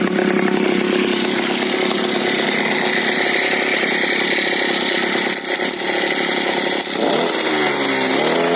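Small outboard boat motor running with a homemade, still unfinished muffler fitted. About seven seconds in, the engine speed dips and then climbs back up.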